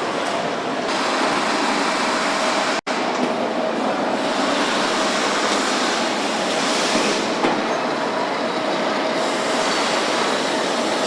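Steady mechanical running noise with a faint steady hum through it, cut out for an instant about three seconds in.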